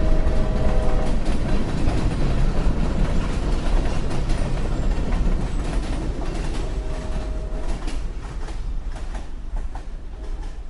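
A train running on rails: a steady, heavy rumble with scattered clicks from the wheels. A faint steady whine comes in briefly near the start and again about seven seconds in. The sound grows gradually quieter over the last few seconds.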